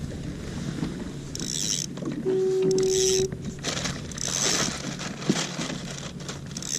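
Mechanical creaking and rasping at intervals, with a steady one-second beep about two seconds in and a single click later.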